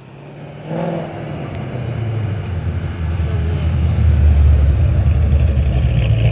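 A heavily cammed car engine with a deep, choppy rumble, growing steadily louder as the car draws near.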